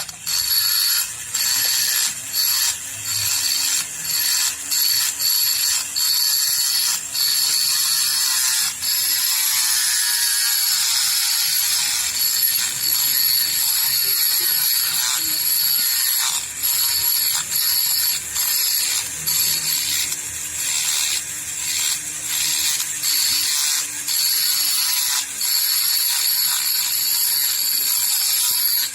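A small mechanism or tool running with a steady high whine and a rattle, broken off briefly about every second.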